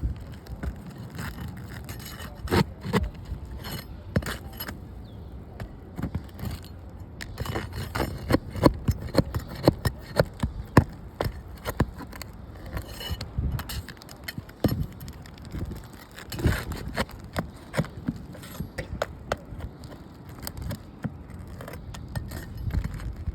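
Irregular clicks, knocks and scrapes of hard objects being handled, over a steady low rumble.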